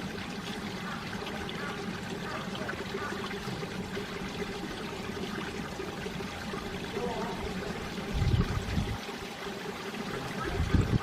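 Mountain valley stream running steadily over rocks. Gusts of wind buffet the microphone with a low rumble about eight seconds in and again near the end.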